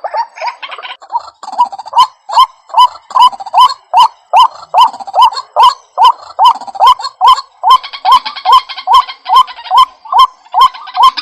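White-breasted waterhen calling: a long, monotonous series of short rising notes, about two to three a second.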